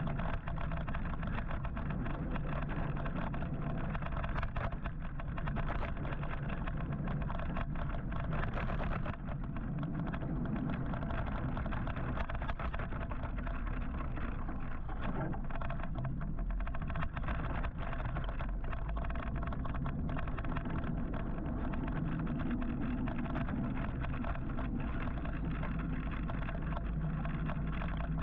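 Steady wind and road noise from riding an electric motorcycle in city traffic, heaviest in the low end, with no engine note.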